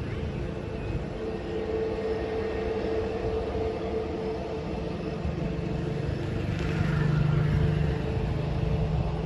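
Jet airliner engines running, a steady rumble with a held whine; the low rumble swells a few seconds in.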